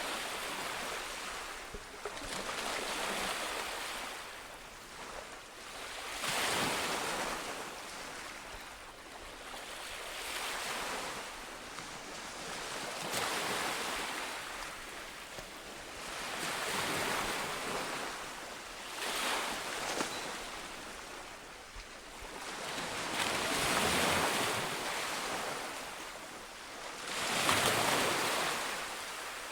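Sea waves breaking on a shore: a rush of surf that swells and ebbs every three to four seconds.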